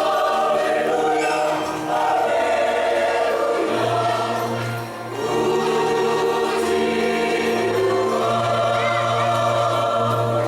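Church choir singing a hymn in parts, holding long chords, with short breaks between phrases about two seconds and five seconds in.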